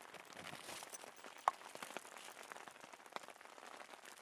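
Rain falling on a tent, heard from inside: a soft steady hiss with many irregular drop taps on the fabric, one sharper tap about a second and a half in.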